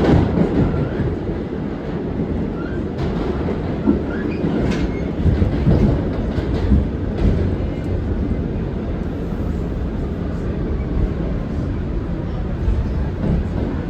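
New York City subway train on the W line running steadily through the tunnel: a continuous low rumble with irregular clacks of the wheels over rail joints.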